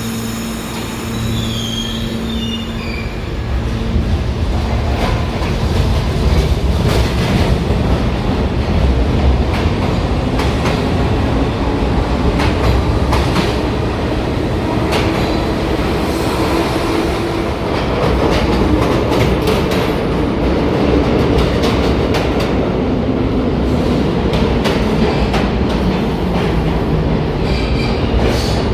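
New York City subway train moving through a station: wheels clacking and squealing on the rails, with a whine that rises and later falls in pitch. It gets louder about four seconds in.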